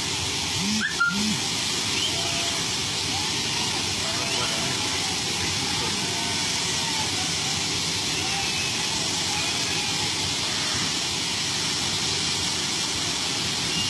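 Steady hissing rush of a Mumbai suburban local train in motion, with a short knock about a second in and faint voices underneath.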